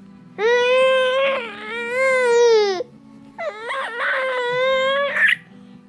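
A young child crying: two long wails, the second shorter and breaking up near its end.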